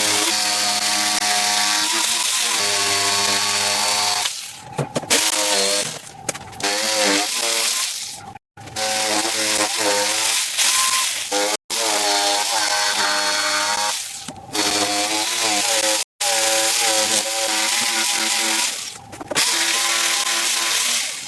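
Chainsaw cutting wood, its motor pitch rising and falling under load. The sound breaks off abruptly several times.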